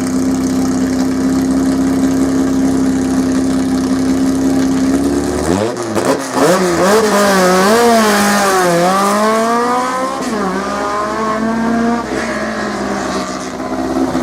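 Rally car engine holding steady revs, then about five seconds in it pulls away hard, its revs climbing and dropping repeatedly through gear changes and lifts.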